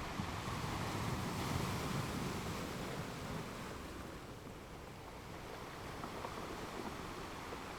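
Ocean surf: a wave breaks and rushes in during the first few seconds, then the wash eases off into a steady hiss.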